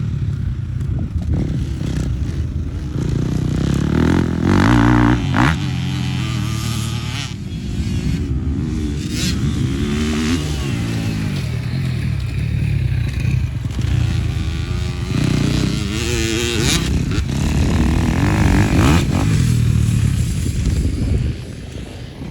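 Dirt bike engines revving up and down again and again, rising and falling in pitch as the bikes go through the corners. They get a little quieter near the end.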